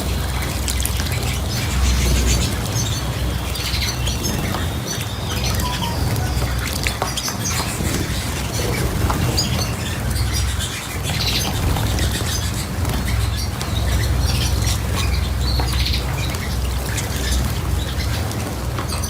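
Small cage birds chirping in short, scattered calls over a steady low rumble.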